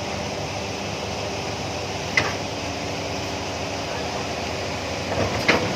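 Truck engine running steadily, with a sharp knock about two seconds in and a short clatter near the end.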